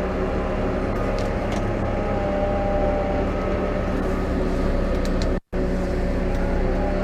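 New Holland T5 120 tractor's four-cylinder diesel engine running steadily under ploughing load. The sound cuts out completely for a split second about five and a half seconds in.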